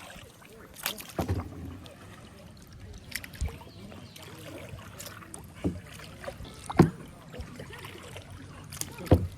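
Kayak paddling: a handful of short, sharp knocks and splashes from the paddle against the hull and water, the loudest about seven seconds in and another near the end, over a faint water wash.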